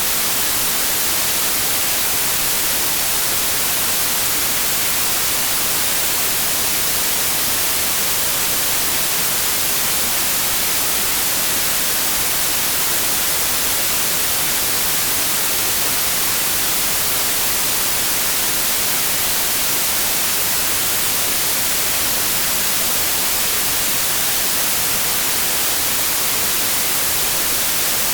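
Continuous synthetic white noise: an even, unchanging hiss, brightest in the high frequencies.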